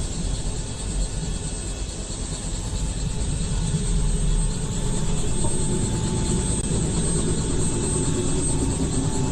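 Helicopter turbine engine and rotor running steadily: a low rumble with a thin, steady whine, growing slightly louder a few seconds in.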